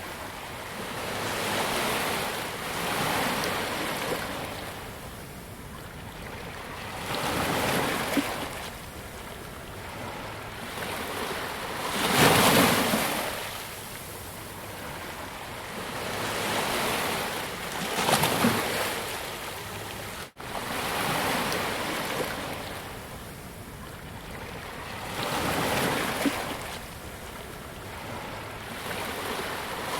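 Sea waves breaking and washing up on a beach, each surge swelling and fading every few seconds, the strongest about twelve seconds in. The sound cuts out for an instant about two-thirds of the way through.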